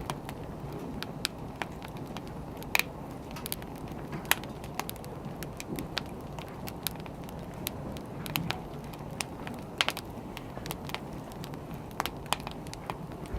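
Wood fire burning, with irregular sharp crackles and pops over a steady low rumble of flames.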